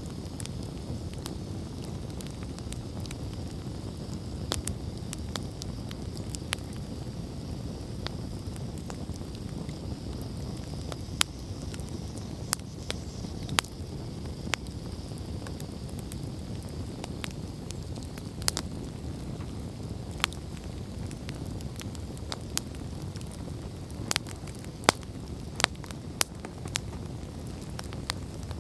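Wood campfire burning, with a steady low rumble of flames and frequent sharp crackles and pops, which come thicker near the end.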